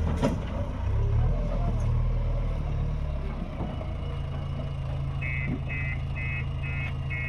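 A heavy diesel machine's engine running, with a sharp knock just after the start. About five seconds in, a reversing alarm starts beeping at about two beeps a second.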